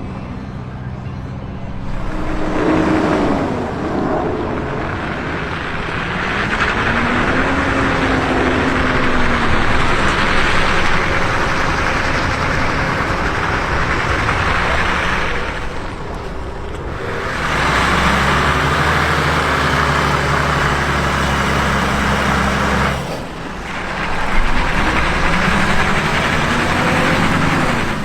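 A heavy engine running under load and revving up and down, its pitch rising and falling, under a loud rushing noise. It eases off twice, around the middle and again about three-quarters of the way through, then picks up again.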